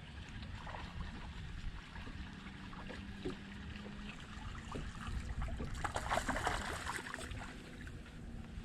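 Wind buffeting the microphone over water sloshing around a small fishing boat, with a louder rushing splash about six seconds in.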